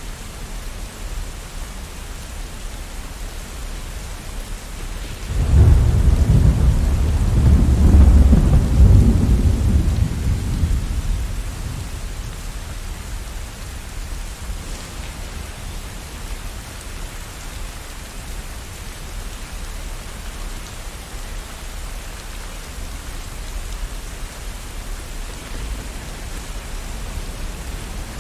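Steady rain falling with a thunderclap about five seconds in: a sudden deep rumble that rolls on for several seconds and dies away, leaving the rain.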